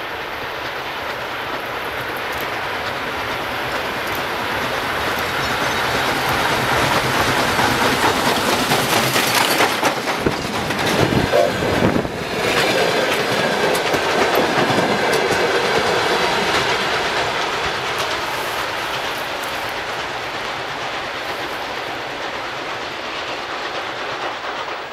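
A train passing by with wheels clattering over the rail joints, growing louder to a peak in the middle and then slowly fading away.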